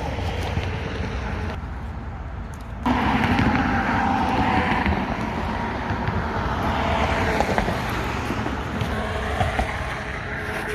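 Wind buffeting the microphone: a steady rumble outdoors, with a brief dip a couple of seconds in.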